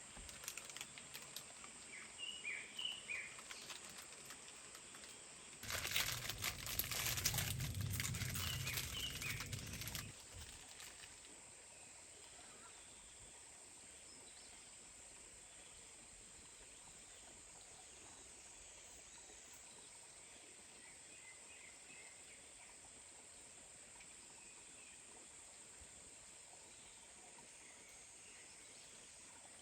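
Forest ambience: a steady high insect drone with a few short bird chirps. From about six to ten seconds a louder rustling noise with a low rumble comes in, then stops.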